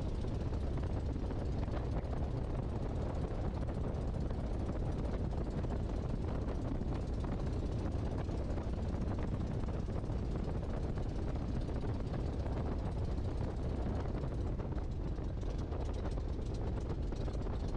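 Great Lakes open-cockpit biplane's engine running steadily, a continuous low drone with no change in power.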